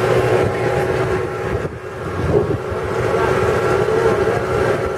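Farm tour truck's engine running steadily as it drives slowly along, with a brief dip in the noise about two seconds in.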